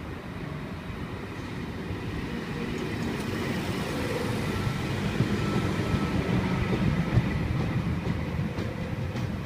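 V set double-deck intercity electric train rolling along the platform as it pulls in, its wheels rumbling over the rails. The sound grows louder toward the middle.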